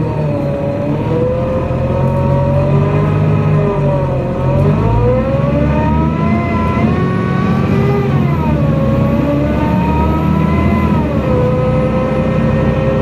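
NefAZ-5299-30-51 city bus heard from on board, its engine droning low under a drivetrain whine. The whine rises and falls several times as the bus speeds up and slows, then holds steady near the end.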